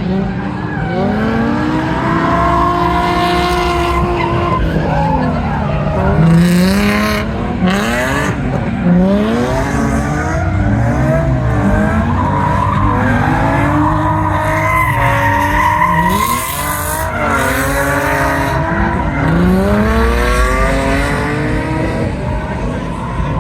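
Drift cars' engines revving hard, rising and falling over and over as they are driven sideways, with tyres squealing and skidding in bursts.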